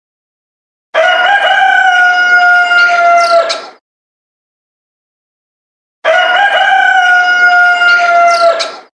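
Rooster crowing twice, two long crows of about three seconds each. The second starts about two seconds after the first ends, with dead silence around them.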